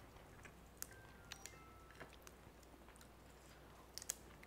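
Faint chewing of a mouthful of rice, with a scattering of small, soft clicks.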